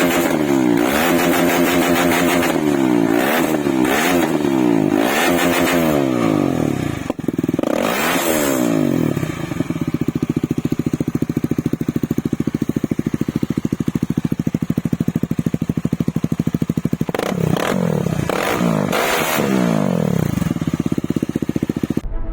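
KTM Duke 250's single-cylinder engine revved in repeated quick blips through a free-flowing exhaust, its silencer hollowed out and the catalytic converter removed. It then settles to a steady idle for several seconds before a few more blips of the throttle.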